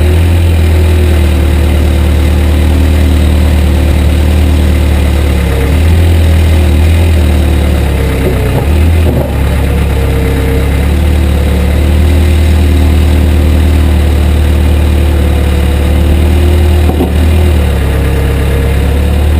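Caterpillar 428B backhoe loader's diesel engine running steadily and loudly, with small shifts in pitch as the machine works.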